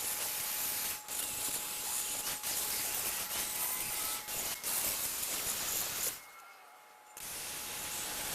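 A steady high-pressure spray hissing, briefly interrupted a few times and stopping for about a second near the end before starting again, as a trigger is released and squeezed.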